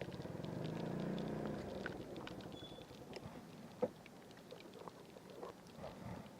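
A vehicle's engine running, dying away two to three seconds in. Then come scattered small clicks and one sharper click near the middle.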